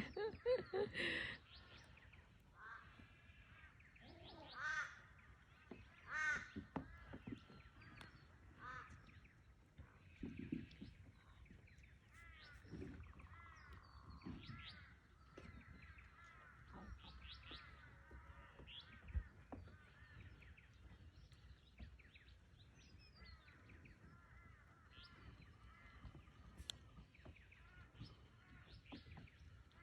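Young birds calling: many short, repeated calls with a crow-like caw quality, loudest a few seconds in and continuing as softer chatter, with a few soft low knocks of movement.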